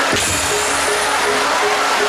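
Loud Javanese gamelan music of the kind played for jaranan buto, with steadily repeating metallophone notes. A sharp crash comes just after the start, followed by a high ringing shimmer.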